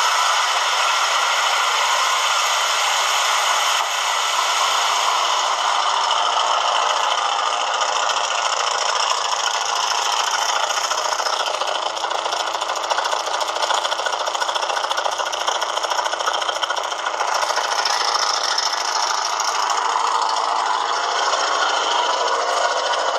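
Carbureted engine of a 1985 Dodge Prospector running steadily in the first half-minute after a cold start at minus 16, not yet warmed up.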